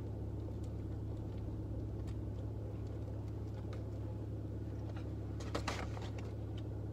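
Steady low hum of a car interior, with faint, scattered crunches of fried chicken being chewed and torn apart; a small cluster of crunches comes a little after five seconds in.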